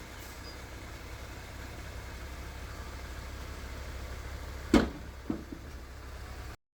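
Diesel engine of earthmoving machinery running with a steady low rumble. About three-quarters of the way through there is one sharp, loud knock, then two lighter knocks, and soon after the sound cuts off suddenly.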